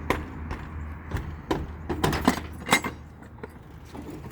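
Metal clanks and clicks of a semi-trailer's rear door latch and handle being worked open. There is a quick run of sharp knocks in the first three seconds, then it quietens.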